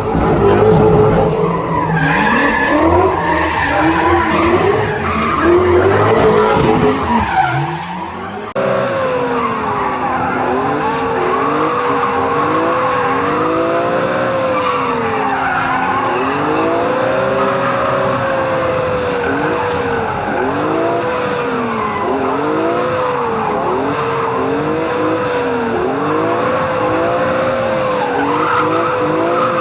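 Drift cars running hard: the engines rev up and down over and over as the throttle is worked, with tyres skidding and squealing. The sound changes abruptly about eight seconds in, then one engine's revs keep swinging up and down every second or two.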